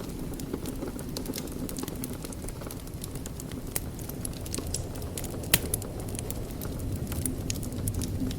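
Wood fire crackling in a fireplace: a steady low rumble of flames with scattered sharp pops and snaps, the loudest a little past halfway.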